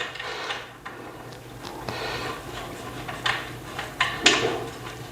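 Light knocks and scrapes of TV-stand parts being handled and fitted together, with a sharper knock about four seconds in.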